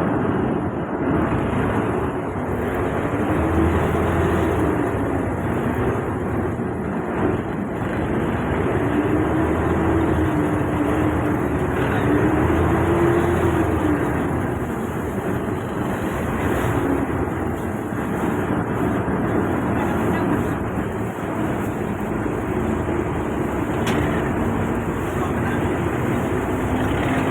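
A river boat's engine running steadily, its note drifting slowly up and down as its speed changes.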